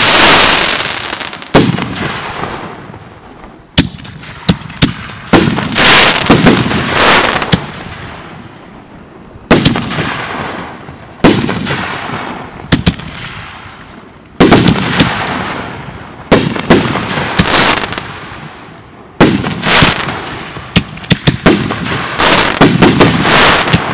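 Aerial fireworks bursting overhead: a run of sharp bangs about every one to two seconds, several followed by quick clusters of crackles, each dying away before the next.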